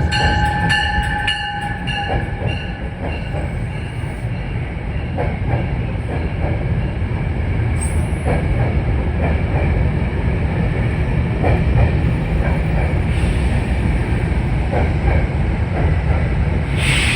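Metro-North commuter train running past the platform with a steady rumble and wheels clicking over rail joints. Wheel squeal rings for the first couple of seconds. A short sharp hiss comes near the end.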